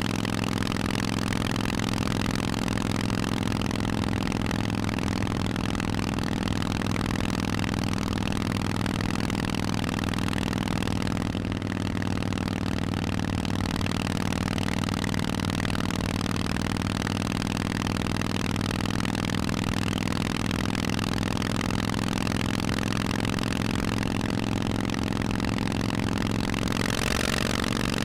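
Harley-Davidson Forty-Eight's 1200 cc V-twin running steadily through Vance & Hines aftermarket exhaust pipes, its pitch nearly unchanging. It gets briefly louder and brighter just before the end.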